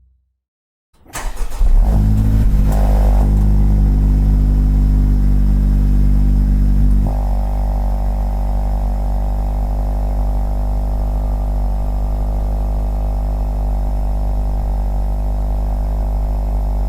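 Honda Civic Type R FL5's 2.0-litre turbocharged four-cylinder starting about a second in, flaring briefly, then running at a steady high idle through its exhaust. About seven seconds in, the idle steps down slightly and settles.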